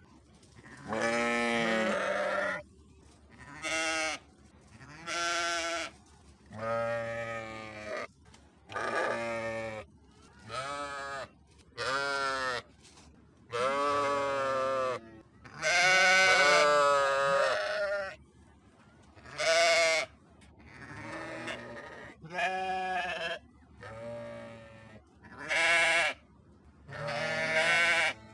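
Sheep bleating over and over: about fourteen separate bleats, some short and some a second or two long, each with a wavering pitch and short pauses between them.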